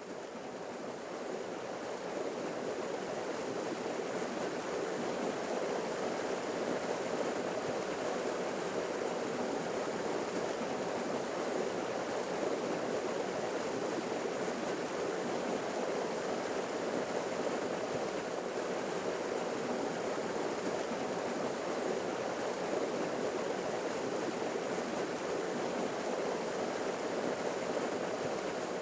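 Forest waterfall: a steady rush of falling water that fades in over the first couple of seconds, then holds even.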